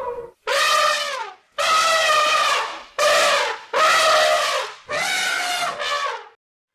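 Elephant trumpeting: five loud blasts in quick succession, each about a second long with short gaps between, the pitch sagging slightly at the end of each.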